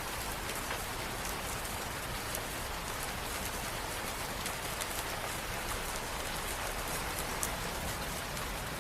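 Steady rain falling on a hard surface, an even hiss with scattered faint drop ticks.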